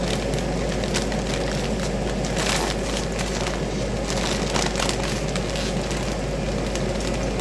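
Plastic chip bag crinkling and rustling as it is pulled open, in a few louder bursts over a steady crackling hiss.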